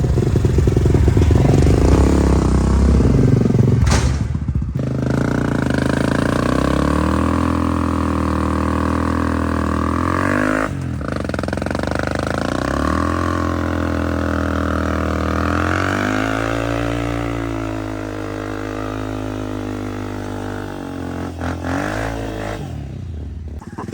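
Dirt bike engine running and being ridden, its pitch climbing and dropping repeatedly as the throttle opens and closes. The sound breaks off abruptly a couple of times.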